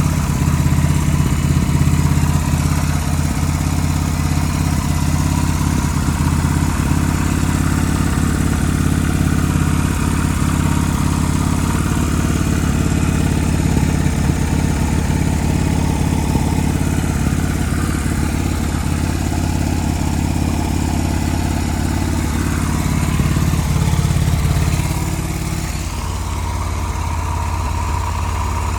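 Yamaha Renaissa motorcycle's single-cylinder engine idling steadily after being started, growing slightly quieter near the end.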